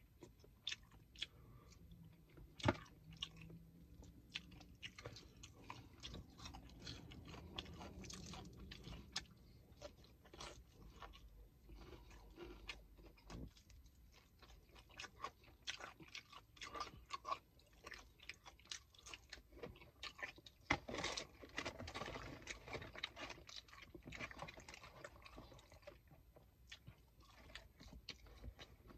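Close-up chewing and biting into chicken, with many small wet mouth clicks and crunches. A thicker run of crunching comes about two-thirds of the way through.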